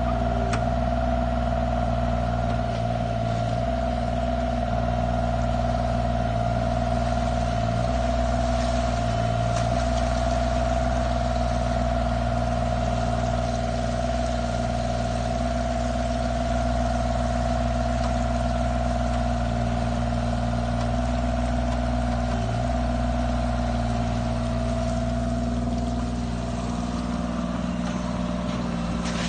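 Bobcat mini excavator's diesel engine running steadily, with a steady high whine over the engine hum; the pitch sags slightly near the end.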